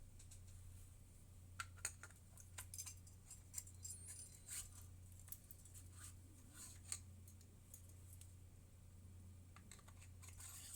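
Faint clicks and light scrapes of small Dellorto PHM40 carburettor parts being handled and fitted together by hand, over a steady low hum.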